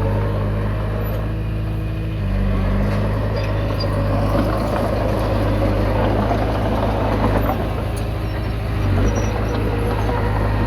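Komatsu D20P bulldozer's diesel engine running steadily under work, its note shifting slightly about two seconds in, with a rough rattling, scraping noise over it from about four to eight seconds in.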